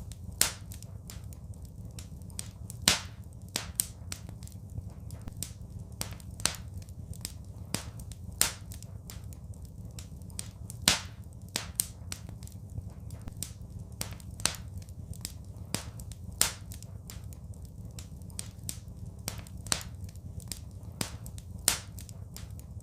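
Wood fire crackling: irregular sharp pops and snaps, some much louder than others, over a steady low rumble.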